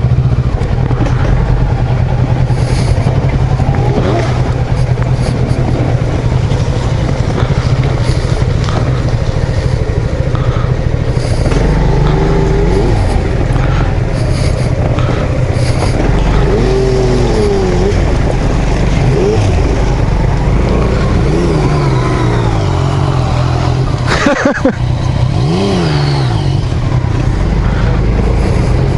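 Yamaha XMAX 250 scooter running on the move, with a steady engine hum and wind noise on the microphone. Its pitch rises and falls several times in the second half.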